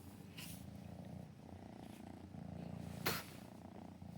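Kitten purring close to the microphone, a low rhythmic rumble that swells and eases. There is a brief scuffing noise about three seconds in.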